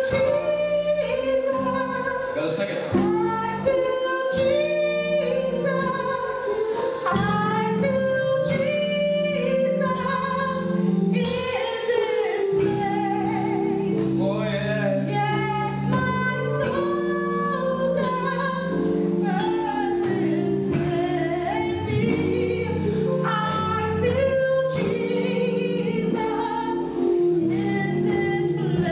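Gospel choir singing with instrumental accompaniment, a melody line over sustained lower notes.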